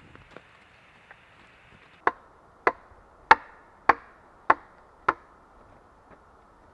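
A hand tool striking wood six times at an even pace, about one blow every 0.6 seconds, after a few faint clicks.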